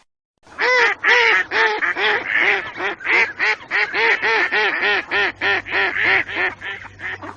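Mallard duck quacking in a fast, even series of about three to four calls a second, starting about half a second in and keeping on.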